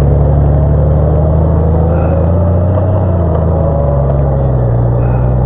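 Motorcycle engine running steadily at low road speed, heard from the bike with wind and road noise over it; the engine note eases slightly about three seconds in.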